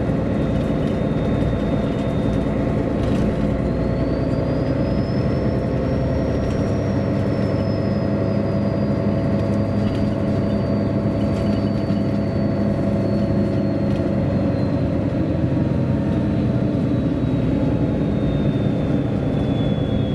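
A 1999 MAN A23 articulated diesel city bus driving, heard from inside the passenger cabin: the engine and drivetrain run steadily. A thin high whine rises in pitch a few seconds in, then slowly falls.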